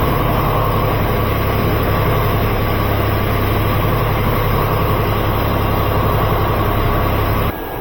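Machinery running steadily with a strong low hum, cutting off abruptly near the end.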